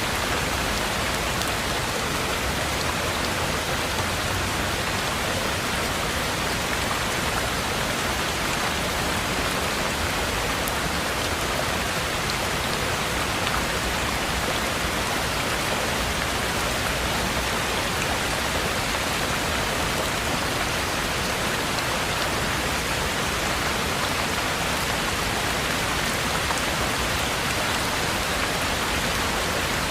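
Heavy rain falling steadily, an even, unbroken hiss with scattered individual drops ticking on a surface.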